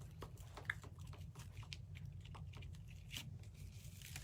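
Faint crinkling and crackling of deco mesh being handled and pinched into a wreath frame: an irregular scatter of small crackles over a low steady hum.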